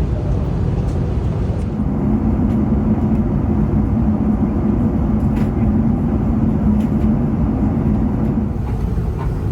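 Steady rushing rumble of airflow and engines inside an Airbus A380's cabin in flight, with a low hum joining it from about two seconds in until near the end.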